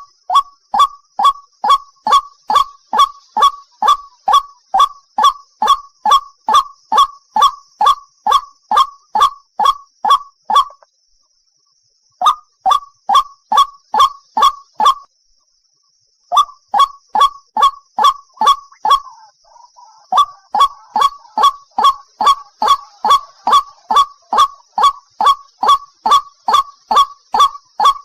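White-breasted waterhen giving its repeated 'ruak-ruak' call: a short, slightly falling note about three times a second. The calling stops twice briefly, once past a third of the way in and again about halfway. A faint steady high hiss runs underneath.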